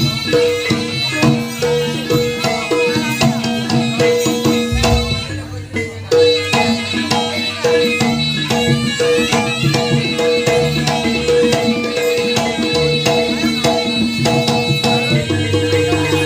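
Live Javanese jaranan (kuda lumping) ensemble music: hand drums beating a busy rhythm over steady, repeated pitched metal notes. The music dips briefly about five seconds in, then picks up again.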